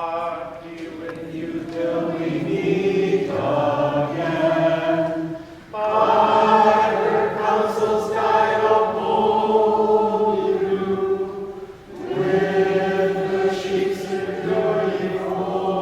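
A small group of voices singing a slow song together, unaccompanied, in sustained held phrases with two short breaks for breath, one about a third of the way in and one near the end.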